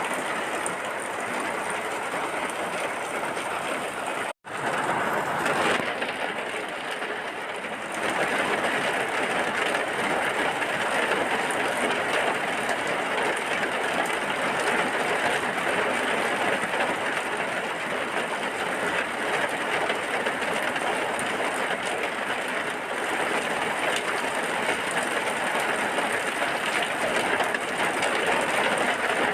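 Steady heavy rain, an even hiss with no distinct drops. It cuts out for an instant about four seconds in and comes back a little louder from about eight seconds in.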